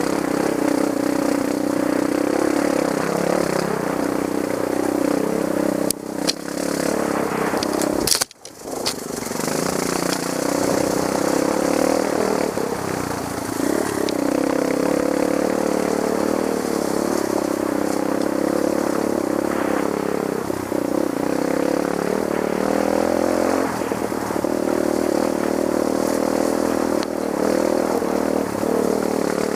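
Trail dirt bike engine running and revving up and down over rough ground, with a sharp knock and a brief drop in sound about eight seconds in.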